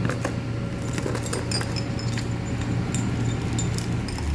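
A lifting chain rattling and clinking against metal: a string of irregular light metallic clinks over a steady low hum.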